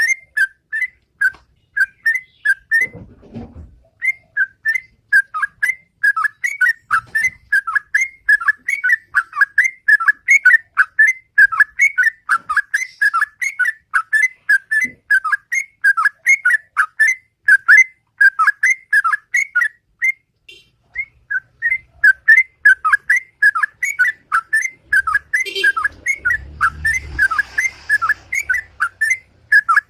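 Sooty-headed bulbul (trucukan) singing its loud, rapid 'ropel' song: a long run of quick whistled notes, about three to four a second, breaking off briefly twice.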